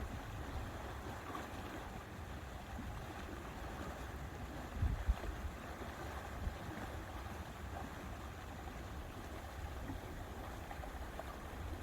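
Lakeside ambience: a steady wash of wind and water, with wind buffeting the microphone in low gusts, the strongest about five seconds in.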